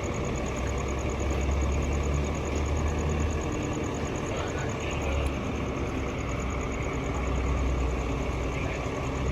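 Vehicle engine idling with a steady low rumble that swells and eases slightly.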